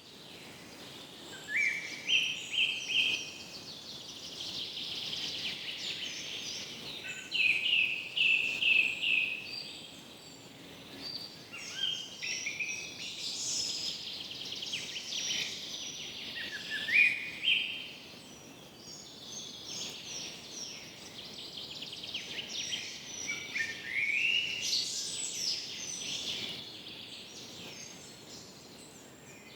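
Several birds singing and chirping at once, with quick runs of rising notes repeating every few seconds over a steady chatter of calls.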